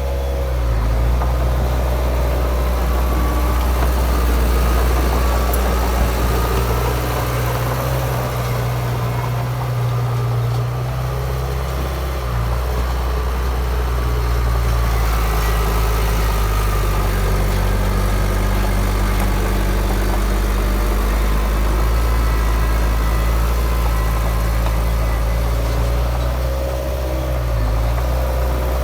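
Heavy diesel engine of earthmoving machinery running under varying load. Its pitch shifts a few times, around a third of the way in and again past the middle.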